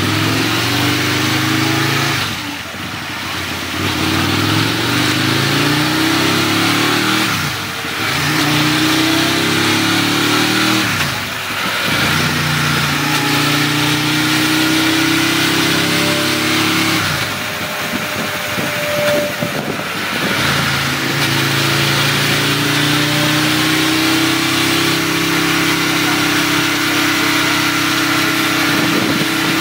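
Aprilia Tuono's 998 cc V-twin with a full Akrapovic 2-2 racing exhaust running loud on a dyno. It revs up and drops back several times in the first half, then climbs slowly and steadily in pitch in a long pull.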